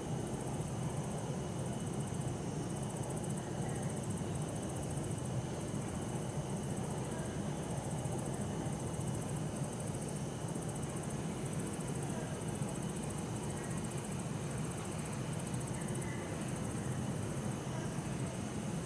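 Steady hum of distant city traffic with a continuous high, finely pulsing trill of insects, among them bell crickets (suzumushi).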